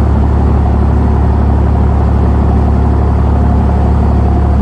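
Fishing boat's engine running steadily, a loud low drone that does not change.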